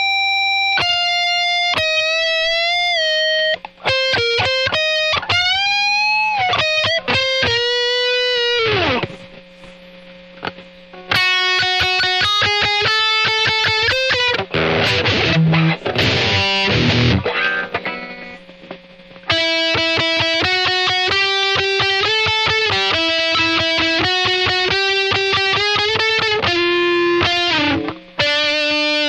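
Distorted electric guitar, an Epiphone SG Special with P90 pickups played through a Boss ME-80 multi-effects unit, playing sustained lead notes with string bends. It pauses briefly about nine seconds in, has a dense strummed stretch around the middle, and ends on more held notes.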